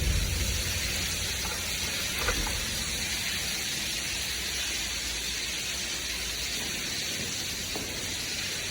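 Steady rain, a dense even hiss, with a faint tick or drip about two seconds in and another near the end.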